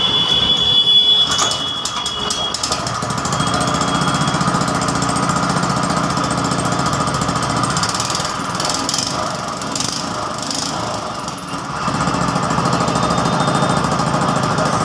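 Small go-kart engine running steadily after an overhaul. It dips briefly about three-quarters of the way through, then picks back up.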